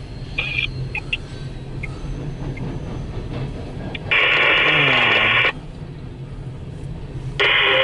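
Two loud bursts of radio static from a railroad scanner: one about a second and a half long about four seconds in, and a shorter one near the end. A low steady rumble runs underneath.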